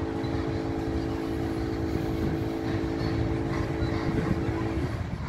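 Loaded coal train cars rolling past with a steady low rumble of wheels on rail. Over it runs a steady hum of several tones that cuts off abruptly near the end.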